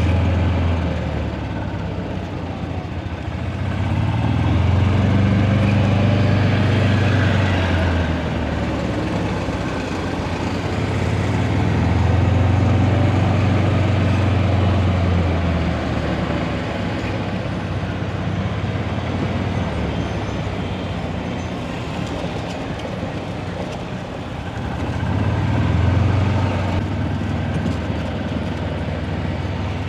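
Golf cart driving along: a steady vehicle rumble, with a low drone that swells and fades three times.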